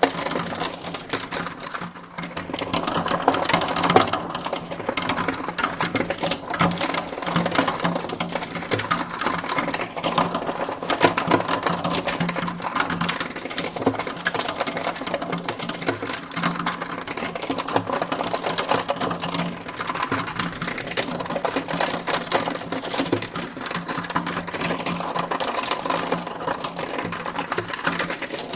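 Continuous rapid mechanical clatter over a steady low hum, part of a control-room machinery ambience, with a slow sweeping sound that returns every several seconds.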